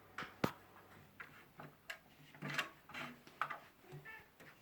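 Toy xylophone tapped lightly and irregularly by a small child: scattered soft taps and clicks at uneven spacing.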